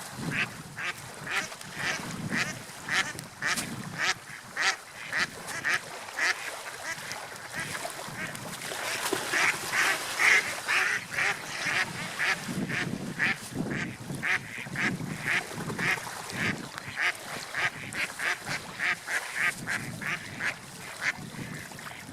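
Gulls calling over and over in short, harsh calls, about two a second and busiest about halfway through, over a steady background rush of wind and sea.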